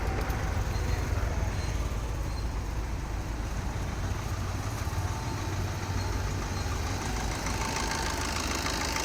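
Car engine idling steadily, with a thin steady whine that comes in about halfway through.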